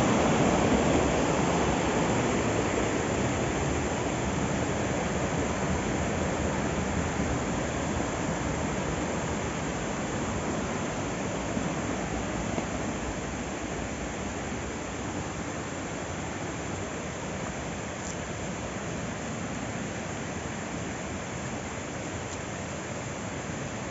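Steady rushing of flowing river water, growing gradually fainter.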